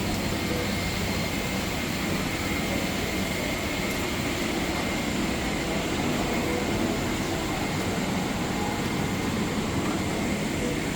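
Steady cabin noise inside a parked Boeing 777-300ER: an even rush of air from the ventilation over a constant low hum, with a thin high whine.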